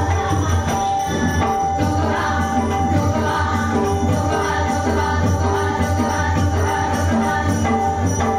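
Women's dabalbari bhajan: a group singing a devotional song over continuous music, with steady jingling of hand cymbals.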